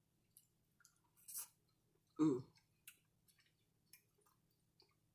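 Close-miked chewing and wet mouth clicks from a person eating, with a louder short mouth sound a little over two seconds in.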